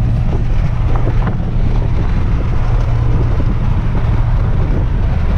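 Steady low drone of a car cruising at highway speed, heard from inside the cabin, with wind noise over it.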